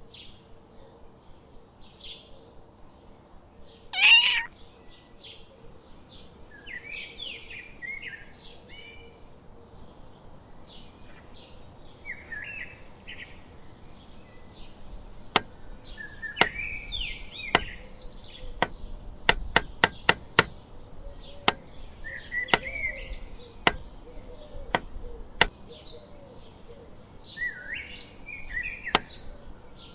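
Small birds chirping throughout, with one loud cat meow about four seconds in. From about halfway, sharp irregular taps or clicks come in, some in a quick run.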